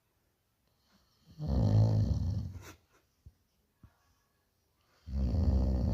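Bhotia dog snoring in its sleep: two big snores about three and a half seconds apart, each lasting about a second.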